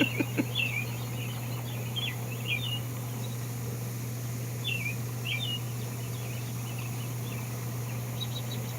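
Songbirds chirping in the morning, short high chirps scattered every second or so, over a steady low hum.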